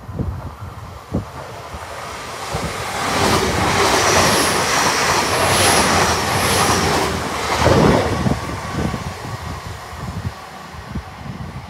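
Great Western Railway Hitachi Intercity Express Train running through the station at speed close to the platform: a rushing rumble that builds, with faint wheel clicks and brief high squeals, then fades as it recedes. A low thump comes about eight seconds in.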